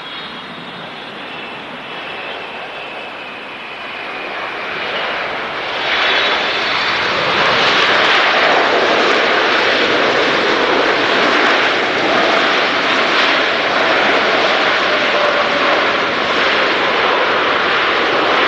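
Large jet airliner on landing approach: its engine roar grows louder over about six seconds and then stays loud and steady, with a faint high whine gliding down in pitch at first.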